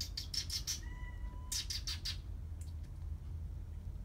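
A quick run of short, high kissing squeaks, the sound made with the lips to call a cat, in two groups. A short steady high note sounds between them, about a second in.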